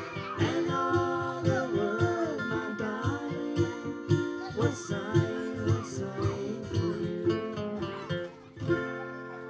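Acoustic guitar strummed and picked through the closing bars of an old-time country song, with a final chord about nine seconds in that rings out.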